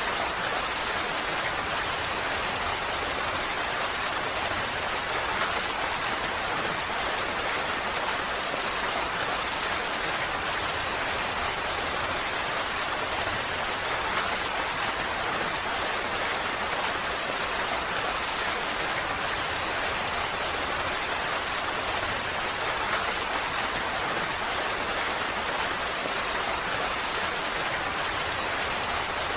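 Steady rain falling, an even, unbroken hiss with the occasional distinct drop.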